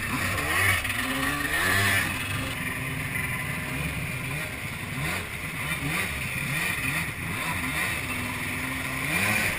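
Jet ski engine revving, its pitch rising and falling over and over as the throttle is worked, with a hiss of rushing water and spray over it.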